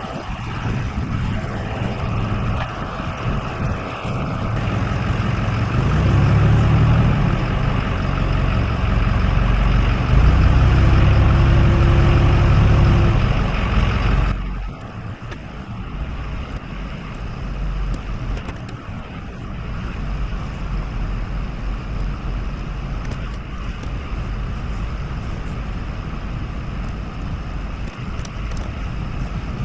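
A vehicle engine straining under load in the mud: it builds up loud from about six seconds in, holds for several seconds, then drops off sharply about halfway through and runs on more quietly.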